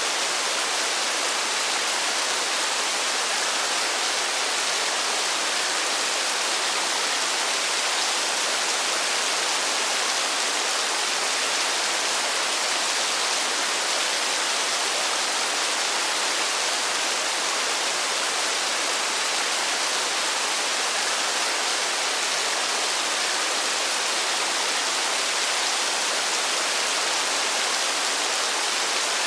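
Steady rain falling, an even, unbroken hiss with no individual drops or thunder standing out.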